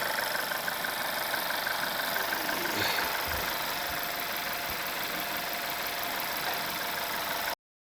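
Volkswagen Golf 6 TSI petrol engine idling steadily with a fast, even ticking clatter over its running noise. The owner puts the clatter down to normal wear at 60,000 km. The sound cuts off abruptly near the end.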